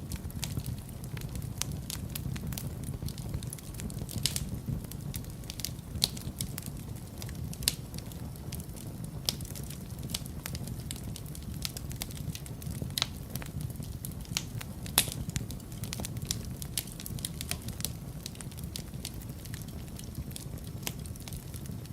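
Wood fire in a fireplace crackling: a steady low rumble of the flames with frequent irregular sharp crackles and occasional louder pops.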